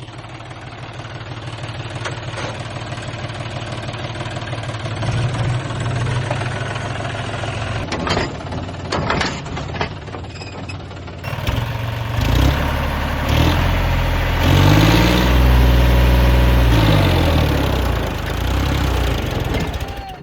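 Tractor diesel engine running steadily, with a few knocks about eight seconds in. Partway through, a louder engine revs up and down repeatedly, as under a heavy pull.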